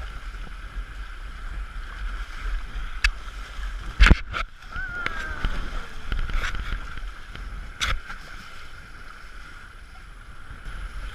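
Small sailboat under sail, with wind buffeting the microphone and water washing along the hull. A few sharp knocks on the boat, the loudest about four seconds in, and a brief falling squeak soon after.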